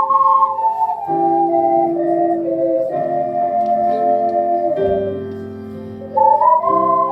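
Slow instrumental music on organ: sustained chords under a held melody line, the chords changing every second or two. It grows softer about five seconds in, then swells back up near the end.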